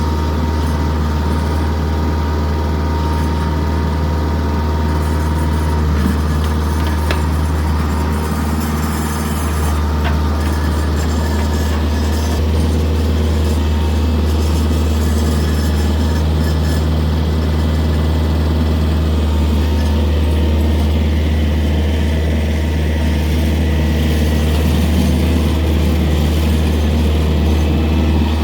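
Tractor diesel engine running steadily at a constant speed, a deep hum with a steady whine above it.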